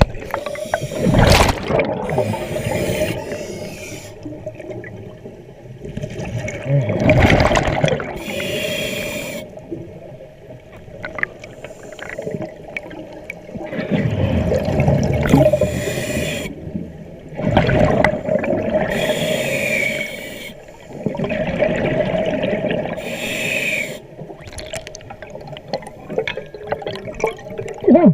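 Diver breathing underwater: regulator hiss and bubbling exhalations every few seconds, over a steady drone.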